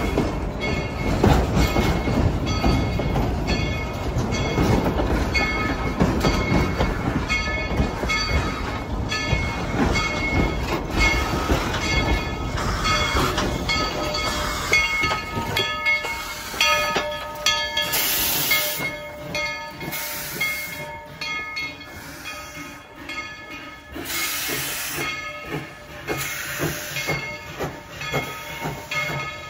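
Narrow-gauge steam train running, with a low rumble and the clatter of wheels on the track. About halfway through the rumble drops away, and about four short hisses of steam follow.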